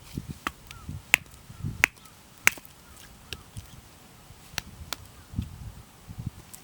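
Wood fire crackling in a small fire pit: sharp, irregular pops and snaps, the three loudest close together in the first half.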